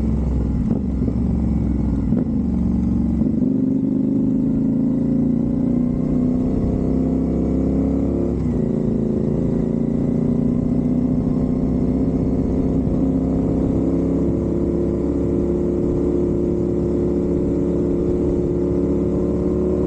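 A 270-degree-crank parallel-twin motorcycle engine running under load. Its pitch climbs slowly through most of the stretch, with a short break about eight seconds in.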